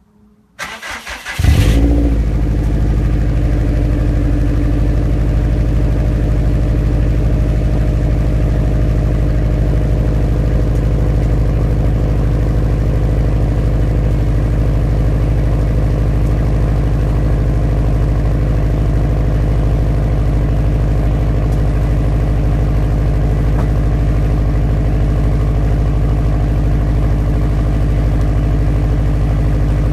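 A car engine being started: the starter cranks briefly about half a second in, the engine catches with a loud flare of revs about a second and a half in, then settles into a steady, even idle through the exhaust.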